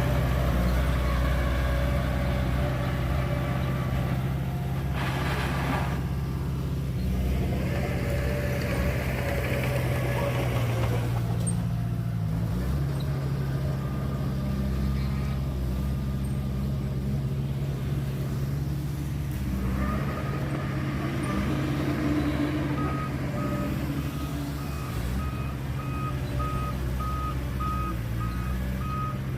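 Heavy diesel engines of a dump truck and bulldozer running steadily under load, with a short hiss about five seconds in. Near the end a reversing alarm starts beeping, about one and a half beeps a second.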